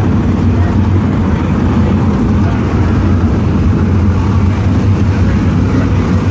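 Sprint car engines running on the track, a loud steady rumble without clear rises or falls in pitch.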